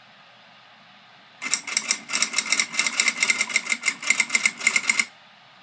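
Rapid mechanical clicking or rattling, about eight clicks a second, starting about a second and a half in and cutting off sharply about three and a half seconds later.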